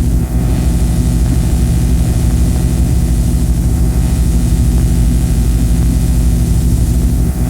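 Harsh noise / drone recording: a loud, steady wall of low hum made of several held tones, with hiss layered over it and no rhythm or melody.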